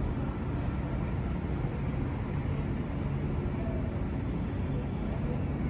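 Sydney Trains double-deck electric passenger train moving slowly along the tracks, giving a steady low rumble.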